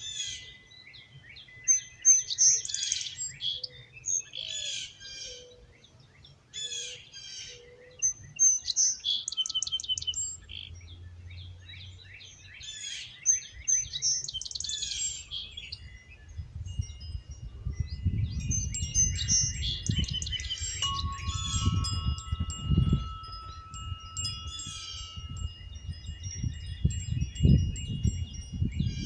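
Songbirds chirping and singing in repeated short phrases, with wind chimes ringing in long held tones that build up in the second half. A gusting low rumble of wind comes in alongside the chimes.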